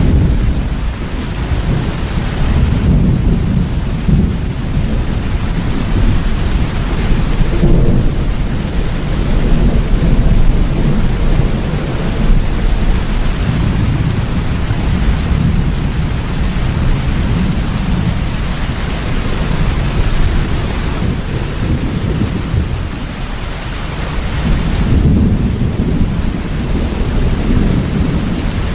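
Steady heavy rain with low rolling thunder that swells and eases every few seconds.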